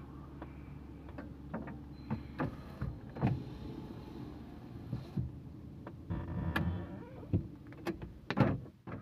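A stationary car's engine idling inside the cabin, with scattered clicks and knocks; the engine cuts off just before the end, leaving quiet.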